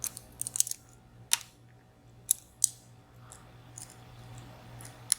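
Dimple-lock pick clicking and scraping against the pins of a three-row, 14-pin VSR dimple lock: about a dozen short, sharp metallic clicks at irregular intervals, bunched in the first second.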